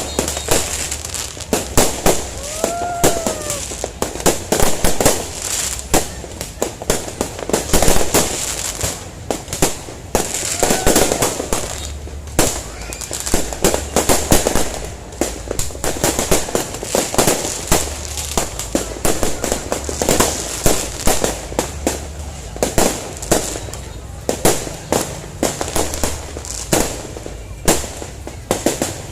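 New Year's fireworks going off in a rapid, continuous string of bangs and crackles, with people's voices around.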